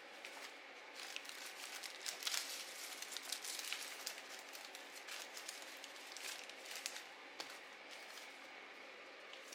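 Paper crinkling and rustling as it is handled, a dense run of crisp crackles that is busiest in the middle few seconds, over a faint steady hiss.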